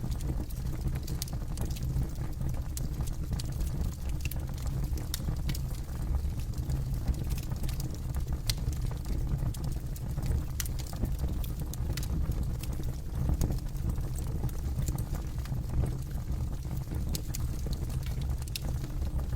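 Campfire burning, with a steady low rumble under frequent sharp crackles and pops scattered at irregular intervals.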